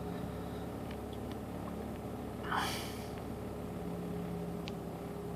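Mazda RX-8's two-rotor rotary engine idling steadily at about 1100 rpm while warming up, heard from inside the car. The engine has low compression, which the owner puts down to worn apex seals. A brief swish or rustle comes about two and a half seconds in.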